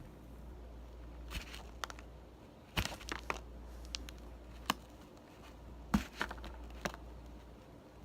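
Plastic knife cutting and scraping a bar of soap: a scatter of short scrapes and clicks, the sharpest about three and six seconds in.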